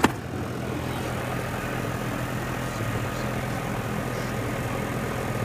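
Central air conditioner's outdoor condensing unit running steadily: the compressor's low hum under the rush of the condenser fan, with a sharp click right at the start. The unit is running while it is charged with R-410A refrigerant.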